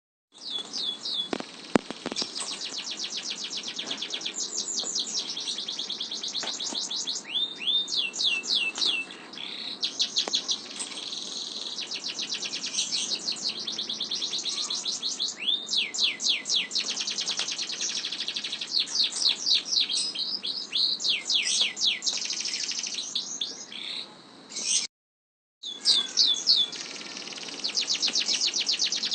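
Domestic canary singing long rolling trills: fast runs of rapidly repeated high notes, one roll leading into the next, with a short break in the song near the end.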